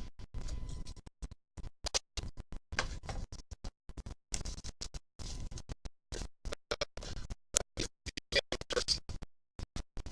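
Rustling and scraping of trading-card packs and cards being handled. The audio keeps cutting out completely, several times a second, so the sound comes through in choppy fragments.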